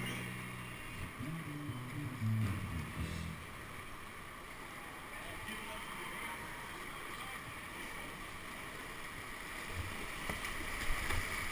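Steady rush of whitewater with wind on the microphone, and low steady tones during the first three seconds.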